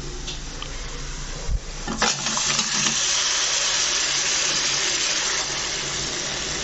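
Marinated mushrooms frying in hot ghee and oil with onions in a kadai. A quieter sizzle jumps about two seconds in to a loud, steady sizzle as the wet mushrooms hit the hot fat.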